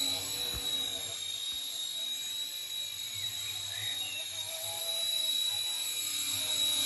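RC ERA C189 Little Bird model helicopter in flight: its small electric motor and rotors make a steady high-pitched whine that fades a little in the middle and grows again near the end.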